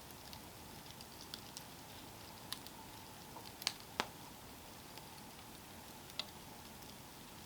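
Campfire burning: faint steady hiss with scattered sharp crackles and pops from the burning wood, the loudest two close together about halfway through.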